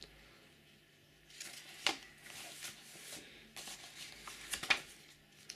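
Paper brochure being handled and leafed through: intermittent rustling with a few small clicks, strongest from about a second and a half in to near the end.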